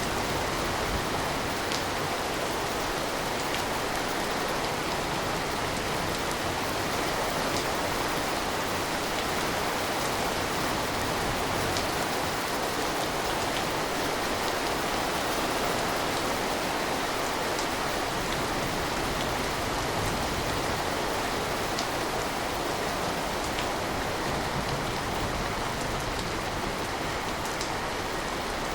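Steady rain falling, an even rushing hiss with faint scattered drop ticks.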